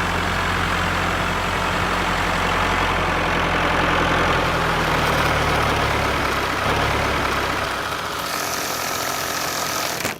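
Tractor engine running steadily with an even, low pitched drone, cutting off abruptly at the end.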